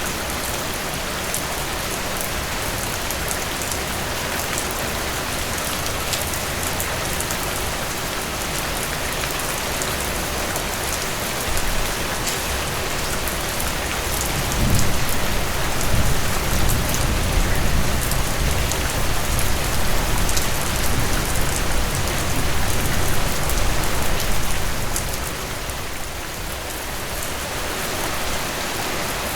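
Steady rain falling on a surface, a dense even hiss with fine pattering drops. About halfway through, a low rumble swells in under the rain for roughly ten seconds, then fades.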